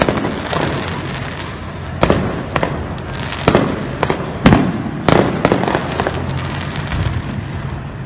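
Aerial fireworks exploding: a string of sharp bangs about every second, with crackling between them. The loudest bang comes about four and a half seconds in.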